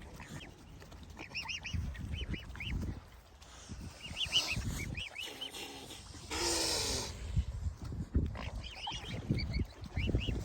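Birds calling in quick series of short, high, arched notes, in several bursts, over low rumbling. About six seconds in there is a louder rasping sound lasting under a second.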